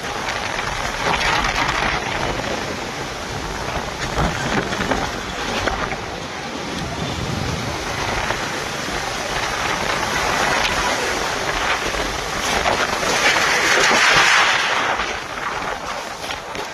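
Strong storm wind blowing in gusts, swelling to its loudest gust a little past the middle and easing near the end.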